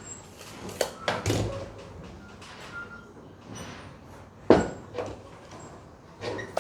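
Several separate knocks and clunks of work on a truck bed, the loudest about four and a half seconds in.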